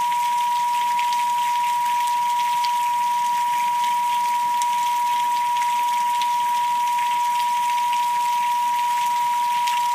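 A steady pure sine tone, the meditation 'pineal frequency', held unbroken over a recording of rain, with scattered drop ticks in the patter.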